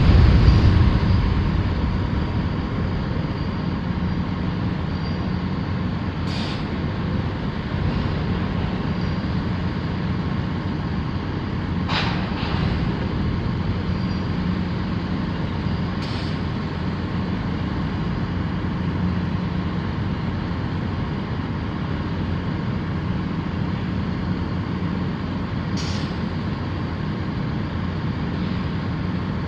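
Heavy diesel engine running steadily with a low hum. A few short hisses come over it at intervals of several seconds.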